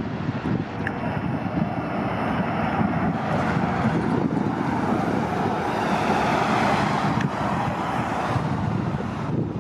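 City transit bus running close by amid steady traffic noise, swelling a little partway through, with some wind on the microphone.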